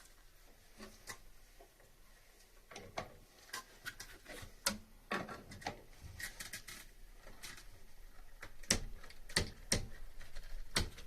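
Irregular light clicks and knocks of hand work with tools and materials, a few sharper knocks coming close together near the end.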